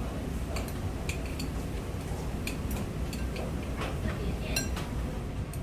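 Chopsticks clinking against a bowl as jjajangmyeon noodles are stirred and picked up: a dozen or so light, scattered clinks over a steady low hum.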